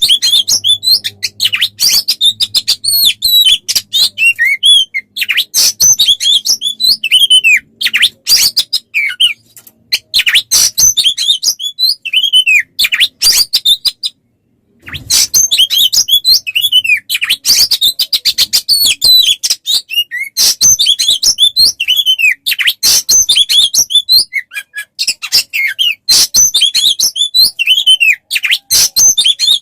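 Songbird song on a masteran tutor track, the kind played to teach caged kacer: a loud, unbroken stream of rapid chirps, down-slurred whistles and harsh clicky notes. It breaks off in a brief silence about fourteen seconds in, then resumes.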